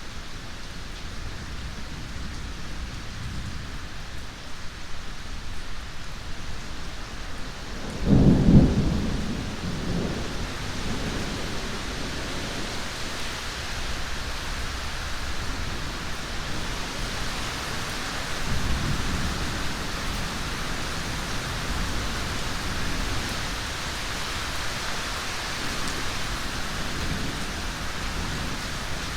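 Steady rain with rolling thunder: a loud thunderclap about a quarter of the way in that rumbles away over a few seconds, and a second, weaker rumble past the middle.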